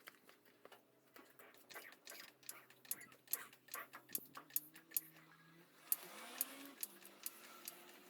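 Faint, irregular metallic clicks and taps of hand tools as the nuts holding the Mini's gear shifter are undone.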